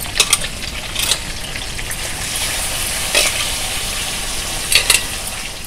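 Biryani masala frying in hot oil in a pot, a steady sizzle, with a stirring spoon knocking against the pan a few times.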